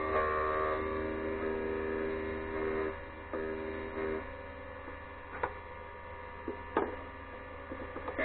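HBM drill grinder's electric motor running with a steady hum and whine, its tones thinning out about halfway through, followed by a few sharp clicks.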